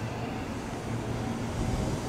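Tobu 9000-series electric commuter train pulling slowly into a station platform: a steady low rumble of wheels and running gear with faint steady tones above it as it slows to stop.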